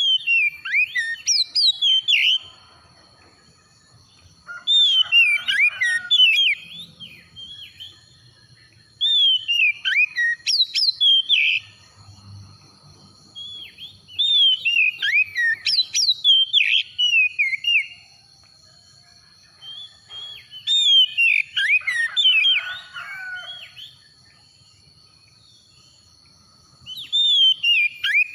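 Oriental magpie-robin (kacer) singing: loud phrases of varied, sliding whistled notes, each lasting a few seconds, repeated after short pauses. A faint steady high tone runs underneath.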